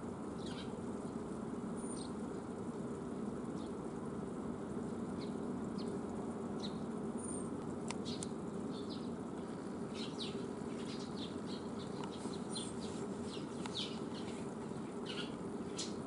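Small birds chirping: scattered short high chirps and a few thin, high whistles, over a steady low hum.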